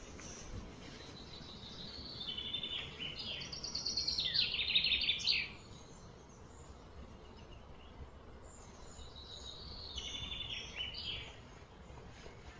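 A songbird singing: a run of fast repeated high chirps that grows louder and stops abruptly about five and a half seconds in, then a shorter, quieter run near ten seconds, over steady low background noise.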